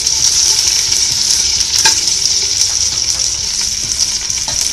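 Sliced onion, garlic and ginger sautéing in hot oil in a metal pot: a steady, high sizzle, with the utensil stirring and clicking against the pot now and then.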